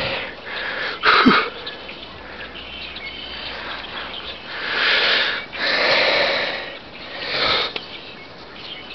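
A person breathing hard and sniffing in the cold: a sharp sniff about a second in, then three loud breaths in the second half.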